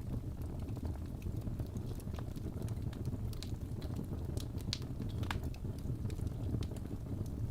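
Wood fire burning in a fireplace: a steady low rumble with scattered sharp crackles and pops, most of them in the middle.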